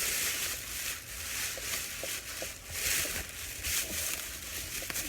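Plastic bag rustling as it is handled, in irregular bursts, with a few light knocks.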